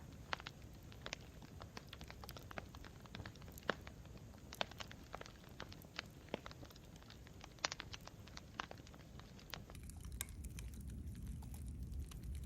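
Campfire crackling: irregular sharp pops and snaps of burning wood over a low, steady rumble of the flames. Near the end the rumble grows a little louder and the pops come more sparsely.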